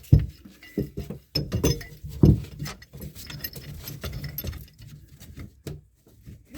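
Irregular clinks and knocks of a wrench and pipe fittings being handled while the P-trap's slip nuts are tightened, with two louder knocks, one at the start and one a little past two seconds in.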